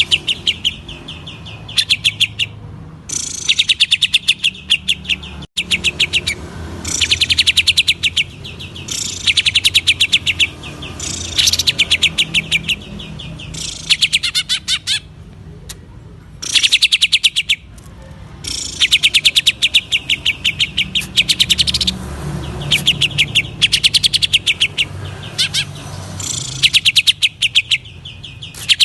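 Cucak ijo (green leafbird) singing in fast rattling bursts: rapid runs of sharp repeated notes, each run a second or two long, broken by short pauses.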